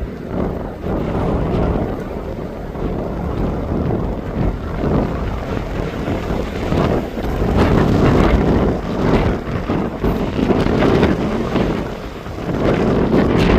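Wind buffeting the microphone in gusts, a loud low rumbling noise that swells about seven seconds in.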